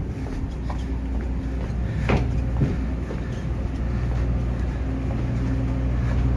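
A steady low mechanical drone, with two short knocks about two and two and a half seconds in.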